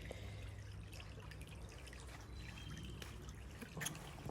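Faint trickle of shallow creek water with scattered small drips, and one brief louder tick near the end.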